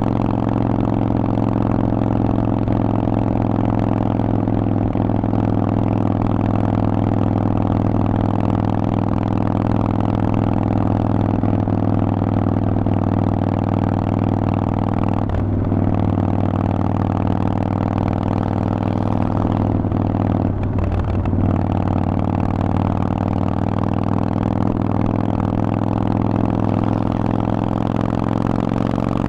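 Harley-Davidson Forty-Eight's air-cooled 1200 cc V-twin running through a Vance & Hines aftermarket exhaust at a steady engine speed, with brief breaks in the sound about 15 s in and again around 20–21 s in.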